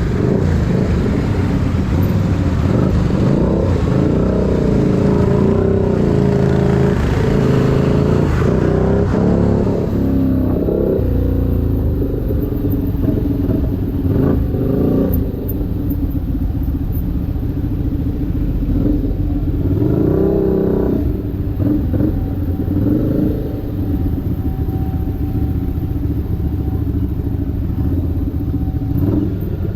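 Keeway SCR 250's 250cc V-twin engine running through a Racefit free-flow exhaust, its pitch rising and falling as it is revved, with short rev rises around the middle.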